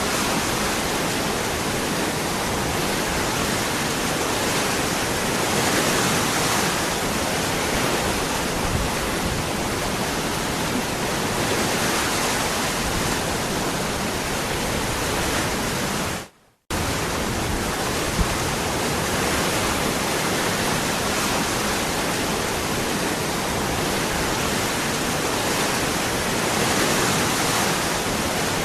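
Waterfall: steady rushing water. About sixteen seconds in it fades out to silence for a moment, then comes back abruptly.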